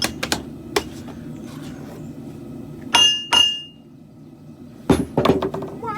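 Hammer blows on metal: a run of light taps, then two loud clanks about three seconds in that ring on briefly, and a few more knocks near the end.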